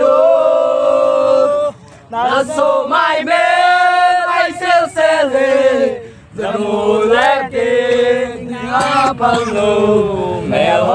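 A group of voices singing together in unison, with long held notes gliding between pitches and a short pause about two seconds in.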